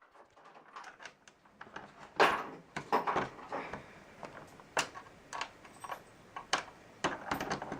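Irregular light knocks, clicks and rustles of garage-door brackets and hardware being handled and positioned, short separate sounds with pauses between them.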